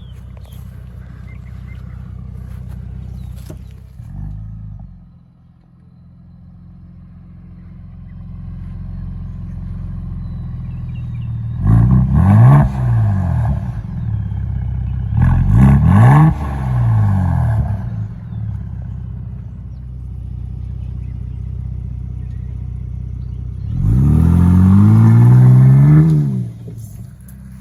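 2024 Ford Bronco Raptor's 3.0-litre twin-turbo EcoBoost V6 running steadily, then revved three times, each rev rising and falling in pitch, the last held longest and loudest.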